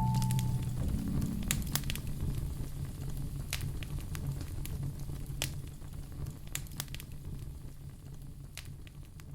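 Crackling fire with sharp pops scattered every second or so over a low steady hum, fading gradually. The last notes of a soft melody die away in the first moment.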